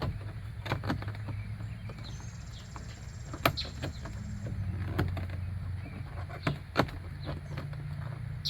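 Scattered sharp clicks and light knocks of hands working on a car door's interior trim panel, over a steady low hum.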